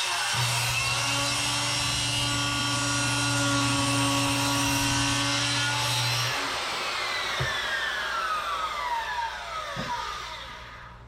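Electric power saw cutting wood with a steady motor hum. About six seconds in it is switched off, and its motor winds down in a falling whine over the next few seconds.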